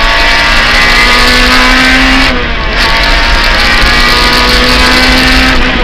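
Rally car engine heard from inside the cockpit, held at high revs under throttle. It drops briefly about two seconds in, pulls steadily again, then backs off at the very end.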